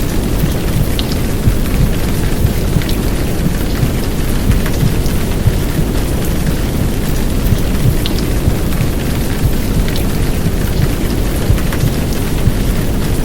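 Heavy downpour of rain, a steady hiss with scattered drop ticks, layered over a deep, steady whooshing rumble of simulated womb sound.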